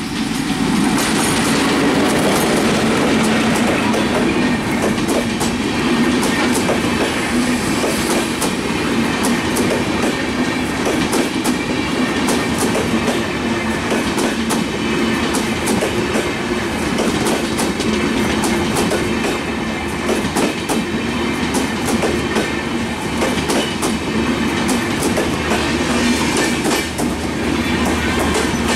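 Diesel locomotive passing close with its engine running, then a long train of LHB passenger coaches rolling by: a steady loud rumble with the clickety-clack of wheels over rail joints.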